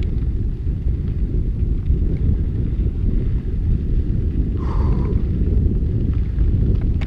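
Heavy, steady low rumble of wind and ride noise buffeting a GoPro microphone while mountain biking, with a brief faint higher sound about two-thirds of the way in.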